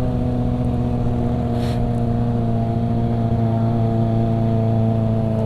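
Kawasaki ZX-25R's inline-four engine running at a steady cruise while being ridden, its pitch holding level, with a short hiss about one and a half seconds in.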